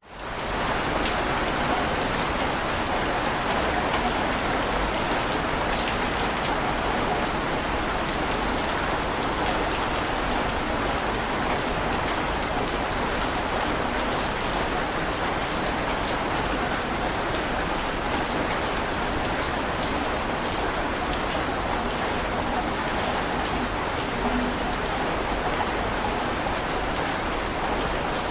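Heavy rain falling steadily, a dense even hiss with scattered drops ticking through it. The level dips right at the start and swells back within about a second.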